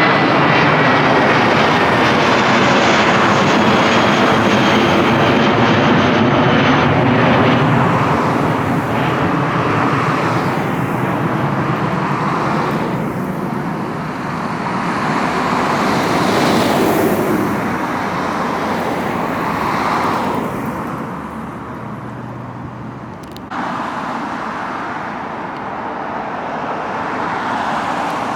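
Widebody jet airliner climbing out low overhead after takeoff: loud engine noise with a high whine that falls slowly in pitch as it passes, then fades away. Road traffic runs underneath and comes forward as the jet fades.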